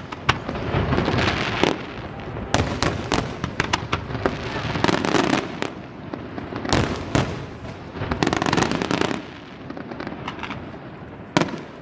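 Aerial fireworks display: many sharp bangs of shells bursting, with denser stretches of hissing noise between them. The bangs thin out after about nine seconds.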